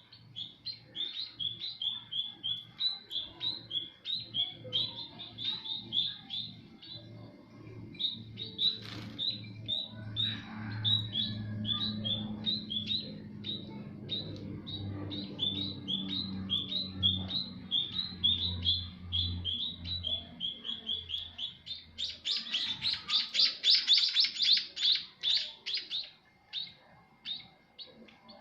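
White-headed munia chirping repeatedly, short high calls several times a second, over a low hum. About 22 seconds in comes a few seconds of rapid fluttering and splashing, the bird bathing in its water dish.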